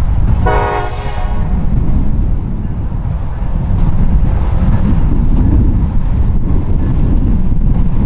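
Freight train of coke hopper cars rolling past, a steady low rumble of wheels on rail. About half a second in, a short horn toot sounds for about a second.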